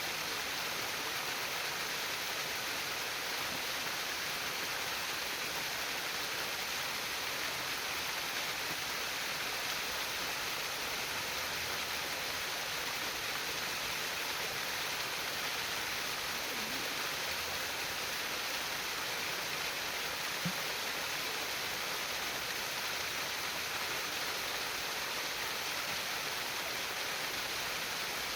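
Water of a stream flowing and trickling in a steady, unbroken hiss, with one small tick about two-thirds of the way through.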